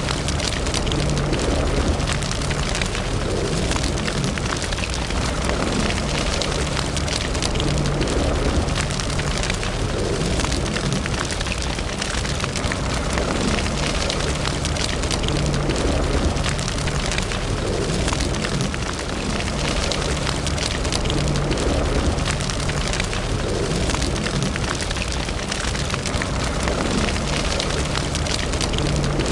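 Wood fire burning in a fireplace: steady crackling and popping over a low roar of the flames.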